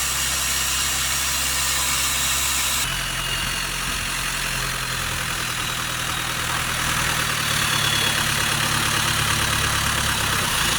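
Boat engine running steadily under a constant hiss, its note shifting about three seconds in and again past halfway.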